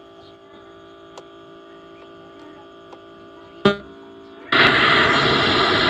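Santosh SNT-4941 home theatre's speaker giving a faint steady hum, with a click shortly before the radio comes on; about four and a half seconds in, its FM radio starts with a sudden loud hiss of static from the speaker. The hum and the sound from the speaker show the amplifier is working again after the repair.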